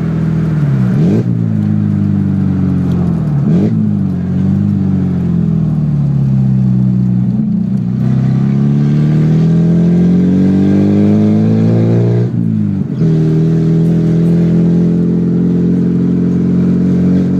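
Classic Rover Mini MPi's 1275 cc A-series four-cylinder engine running with no exhaust fitted, heard from inside the cabin while driving. The revs rise and fall through several gear changes, with a long climb in revs from about eight to twelve seconds, a quick shift, then steady revs near the end.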